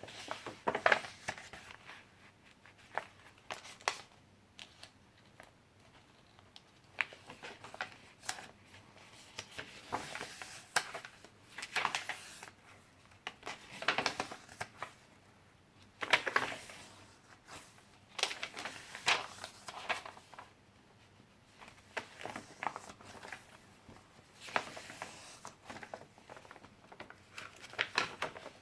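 Paper and card pages of a handmade junk journal being turned and handled: irregular rustles and crinkles with small taps, the loudest about a second in and again about sixteen seconds in.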